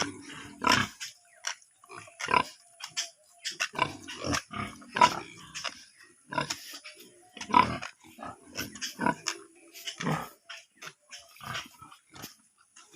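Pigs grunting: short, irregular calls following one another closely, several pigs overlapping.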